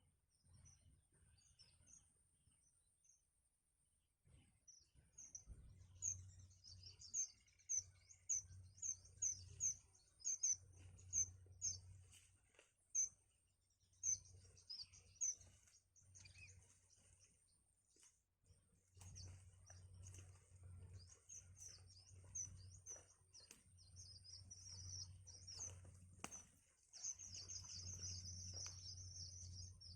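Nestlings begging for food with rapid, high chirps in bursts, busiest near the end.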